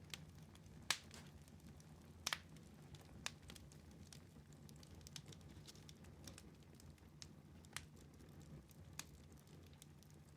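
Faint wood fire crackling in a fireplace: irregular sharp pops and snaps over a low steady rumble, the loudest pops about one and two seconds in.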